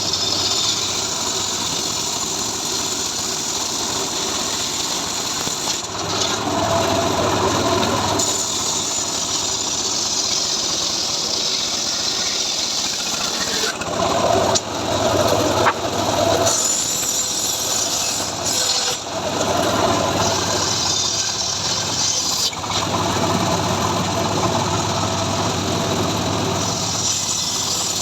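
A homemade engine-driven log saw (gergaji srekel) running continuously while sawing sengon logs. The sound shifts in pitch and strength every few seconds as the blade works through the wood.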